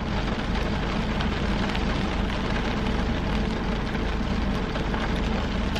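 Rain falling on a car's roof and windows, heard from inside the cabin as a steady, even hiss with a low steady hum underneath.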